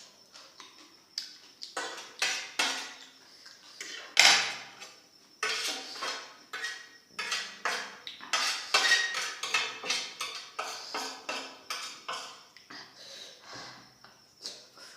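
Cutlery scraping and clinking against a plate of chowmein and gobi manchurian during eating, in a run of irregular strokes, the loudest about four seconds in.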